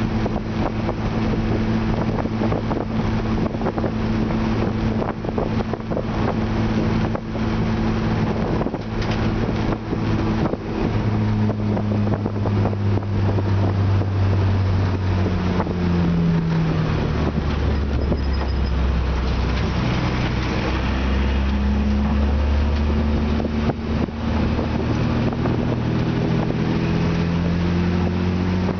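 Spec E30 BMW's inline-six engine running hard, heard from inside the stripped, caged cabin with wind noise over it. About halfway through its pitch drops as the car slows for a corner, then it climbs again near the end as the car accelerates away.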